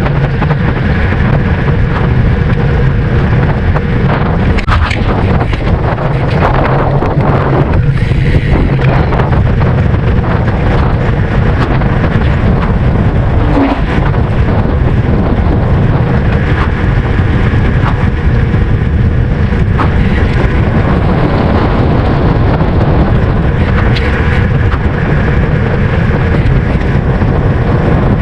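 Steady, loud wind rush buffeting the microphone of a rider on a moving road bike, heaviest in the low end, with a few faint clicks and knocks.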